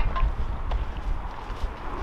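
A few crunching footsteps in snow, with wind rumbling on the microphone.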